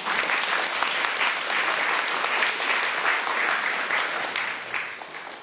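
Audience applauding: many hands clapping steadily, fading off near the end.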